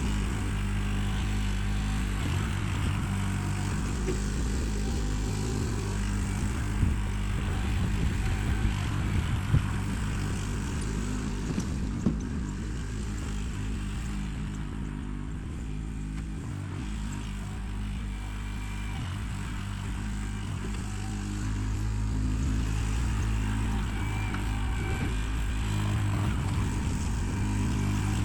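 Backhoe engine running steadily while digging, with a few short sharp knocks about a quarter to halfway through.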